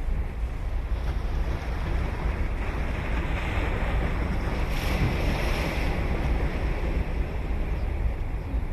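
Ocean surf on a sandy beach: a wave breaks and its wash swells through the middle and then eases, over a steady low rumble of wind on the microphone.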